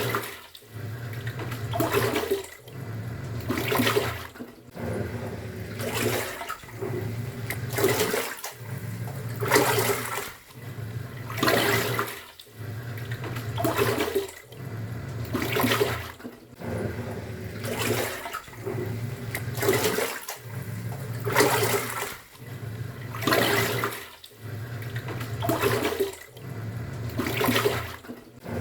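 Top-loading pulsator washing machine agitating a load in water: the motor hums as the pulsator turns, then reverses about every two seconds, with a surge of water sloshing at each reversal.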